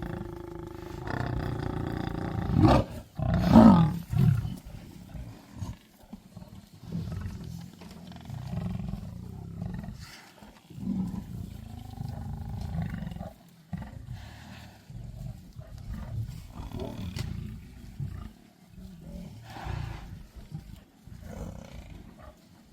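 Lions growling over a Cape buffalo they have pulled down. There are two loud outbursts about three seconds in, then repeated lower growls.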